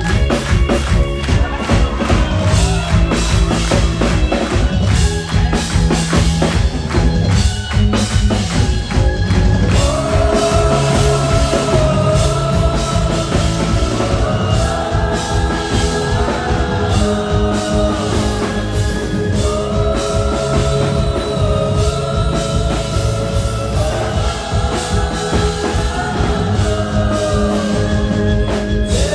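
Live rock band playing loud, with a drum kit and keyboards. About ten seconds in, a held, wavering melody line comes in over it in long phrases.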